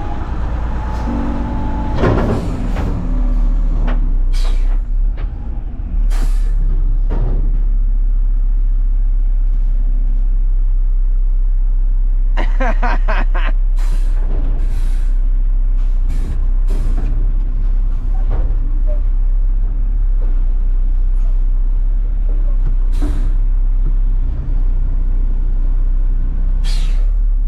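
Front-load garbage truck's diesel engine running, louder from about six seconds in, with scattered sharp knocks, clanks and short hisses through the run.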